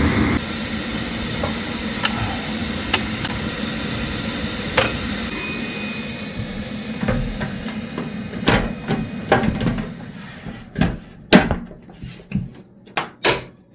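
Steady running noise of a Rinnai RE180 tankless water heater's burner and combustion fan. It drops about half a second in and fades away over several seconds, with a few scattered clicks. Near the end comes a series of sharp knocks and clacks from handling the unit's metal cover.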